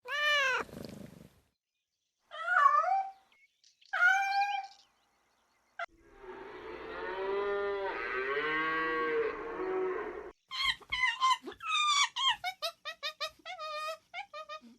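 A string of animal calls: a short falling call, two brief calls, then a long wavering call lasting about four seconds, and finally a quick run of short yapping or clucking calls falling in pitch.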